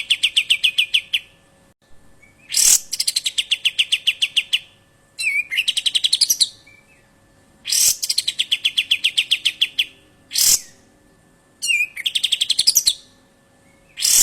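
A bird repeats a loud rattling call every couple of seconds. Each call is a sharp opening note followed by an even, rapid rattle of about a dozen notes lasting just over a second, with a few shorter versions in between.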